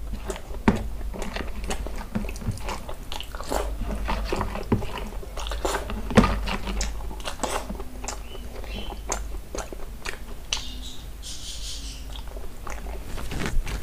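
Close-up chewing and lip-smacking of a man eating mutton curry and rice by hand, with the soft squish of fingers mixing rice on a paper plate; many short wet smacks and clicks throughout.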